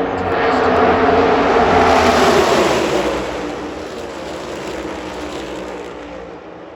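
A pack of NASCAR Cup Series cars with V8 engines at full throttle passing by. The noise swells to its loudest about two seconds in, then fades steadily as the field goes away.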